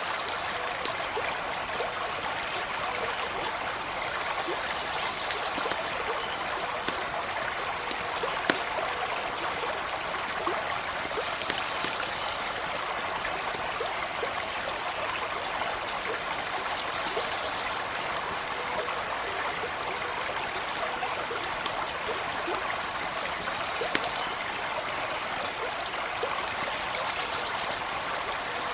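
Small stream running steadily, with scattered sharp crackles from a campfire.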